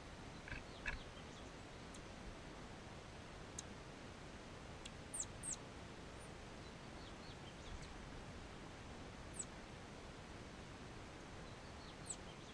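Small songbirds giving thin, high call notes: short chirps that each slide quickly downward, scattered singly and in a quick cluster of three, over a steady faint hiss.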